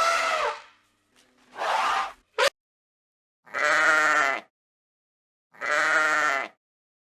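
Bleating: four separate calls, each about a second long with a wavering pitch, split by short silences, plus one very short sharp cry about two and a half seconds in.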